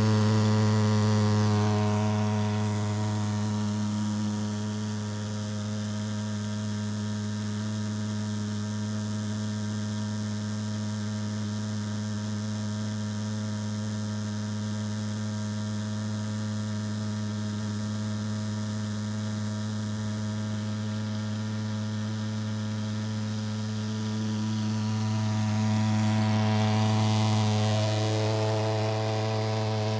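Pulsejet engine of a thermal fogger running steadily, a low-pitched drone that holds one pitch. It drops somewhat in loudness a few seconds in and swells again near the end.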